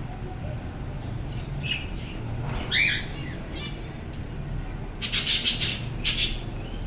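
Budgerigars chirping, with one louder call just before the middle and a quick run of loud squawks about two-thirds of the way through.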